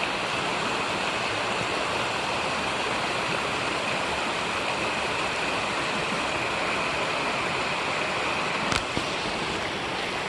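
Steady rush of water from a small waterfall cascading into a mountain creek, with a single sharp click near the end.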